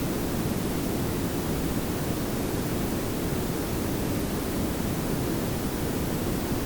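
Layered pink and brown noise: a steady, even hiss with a heavy low rumble, unchanging throughout.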